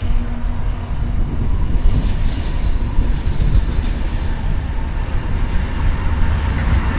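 VIA Rail passenger train approaching behind its diesel locomotive: a steady low rumble, with a hiss of rail and wheel noise coming in about six and a half seconds in as it draws closer.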